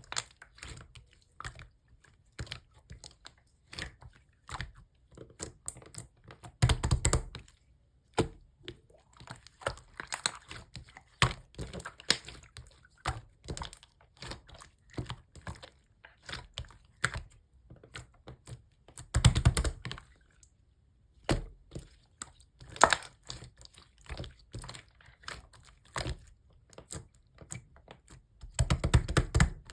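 Slime being squeezed and poked by hand, making a steady run of small sticky clicks and pops. Denser, louder bursts of popping come about seven seconds in, around nineteen seconds and near the end.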